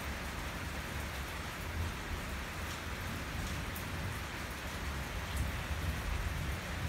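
Steady rain falling, a continuous hiss, with a low rumble underneath that rises and falls.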